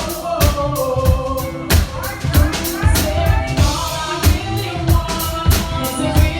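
Live R&B band playing with a steady drum-kit beat while a female singer sings over it.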